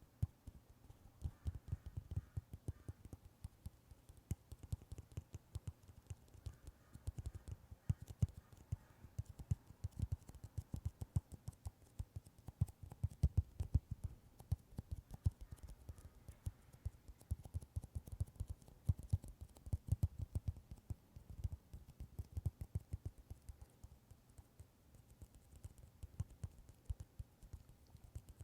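Rapid, irregular tapping close to the microphone, several taps a second, thinning out near the end.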